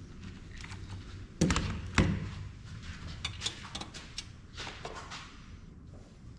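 Tools and metal parts of a thermal printer clicking and tapping as it is taken apart, with two louder knocks about a second and a half and two seconds in.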